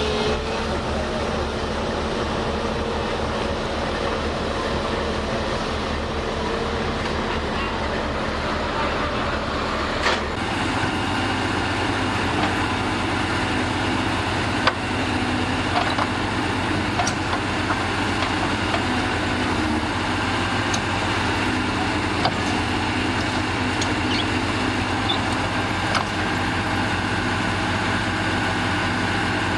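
Heavy diesel engine of earth-moving machinery running steadily; its low note changes abruptly about ten seconds in. Scattered short sharp clicks and knocks sound over it.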